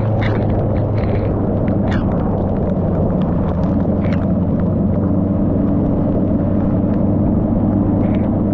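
Motorcycle engine running at a steady pace while riding in heavy rain, buried in loud wind rumble on the microphone, with scattered short ticks.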